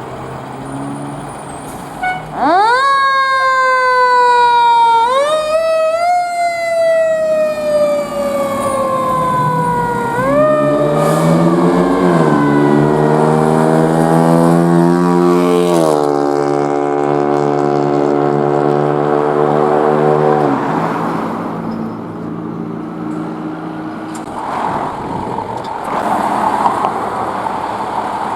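Fire apparatus siren starting a couple of seconds in, wailing up and down in a repeating rise and slow fall. From about ten seconds in a second, lower and steady horn-like tone sounds over it until it cuts off about twenty seconds in. Truck engine and road noise follow.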